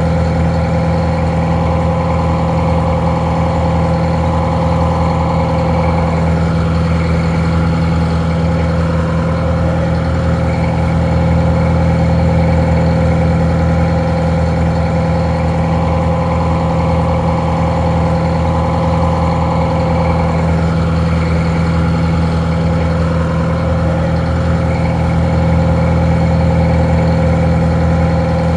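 Detroit Diesel 4-71 two-stroke four-cylinder diesel idling steadily, with a deep, even drone.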